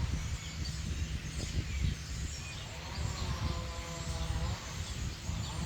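Birds calling outdoors: scattered faint high chirps, and a longer held call from about three seconds in, over a steady low rumble.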